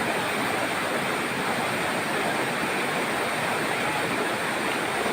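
Steady rush of flowing water, an even hiss-like noise with no breaks.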